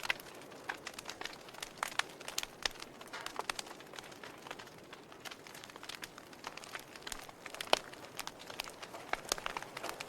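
Log fire in a fireplace crackling: irregular sharp pops and snaps from the burning wood over a soft hiss, with one louder pop about three-quarters of the way through.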